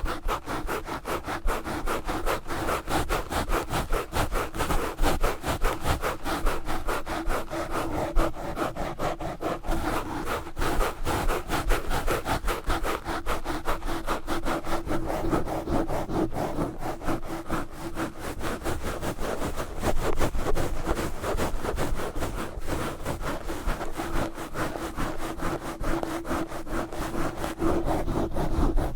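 Knitted yarn gloves scratching and rubbing a Blue Yeti microphone fast and hard, a continuous run of rapid, close-up scratchy strokes.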